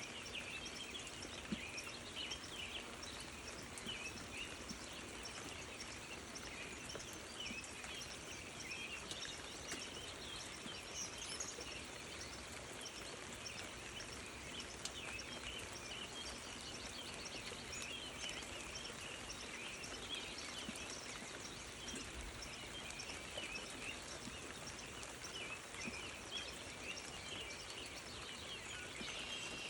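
Steady outdoor ambience filled with a dense, continuous chorus of short high-pitched chirps from small animals, with a few faint clicks scattered through it.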